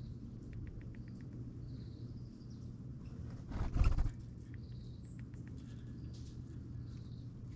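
Small wild birds calling: short high notes and quick runs of clicking notes, over a steady low hum. A brief louder burst of noise about halfway through.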